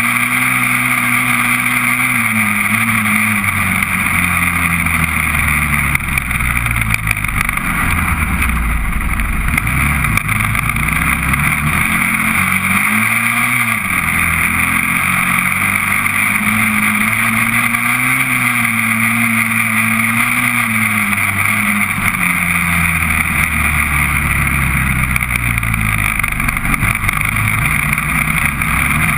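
Honda TRX400EX's single-cylinder four-stroke engine running under way, its revs falling and rising several times with the throttle, with a steady hiss beneath.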